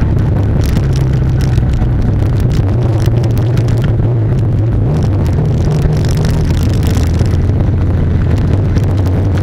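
Turbocharged classic Mini's engine running at a steady speed while driving, heard from inside the cabin as a constant low drone.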